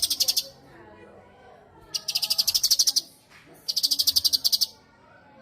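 Cucak cungkok songbird singing three loud, fast rattling trills, the first right at the start, the others about two and about three and a half seconds in, with soft warbling between them.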